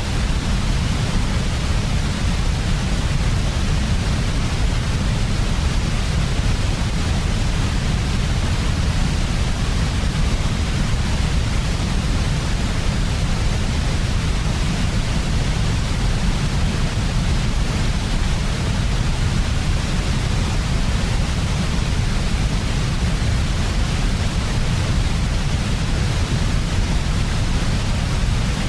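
Steady, unchanging sleep white noise, an even hiss heaviest in the low rumble, with no variation or separate sounds.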